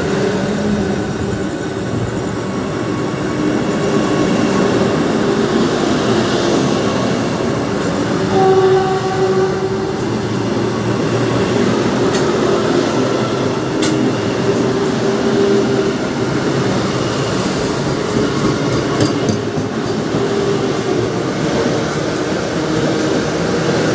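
Train running on the rails: a steady rumble with a wavering whine, and a brief higher squeal about eight seconds in.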